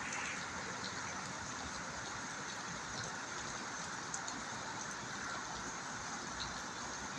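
Heavy rain falling steadily: an even hiss with a few scattered drop ticks.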